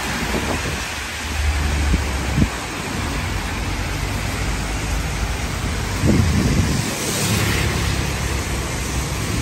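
Heavy rain falling steadily on a city street, with cars swishing past through the water on the wet road; the tyre noise swells twice, once a second or two in and again about six seconds in.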